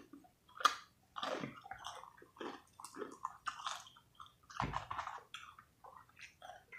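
Close-miked chewing and biting of fried chicken: irregular wet mouth smacks and crunches, with a louder thump about four and a half seconds in.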